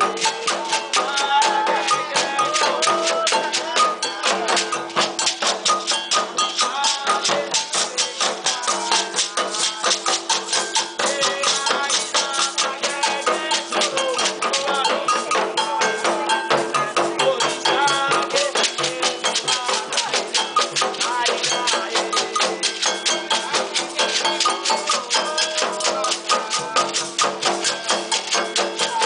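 Afro-Brazilian ritual music for Xangô: rattles and drums beat a fast, even rhythm while voices sing a chant over it.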